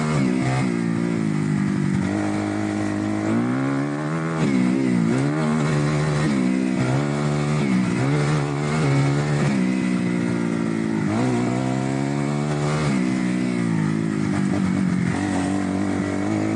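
Kawasaki KX250F dirt bike's single-cylinder four-stroke engine under way, its pitch rising and falling several times as the throttle is opened and closed.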